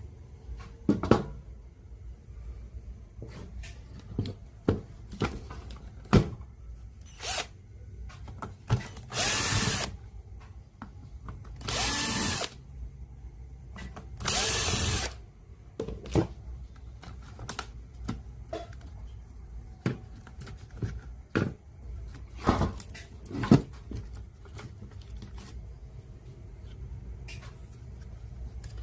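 A small handheld power tool runs in three short bursts of about a second each, its motor pitch rising and falling. Scattered clicks and knocks of parts being handled come between the bursts.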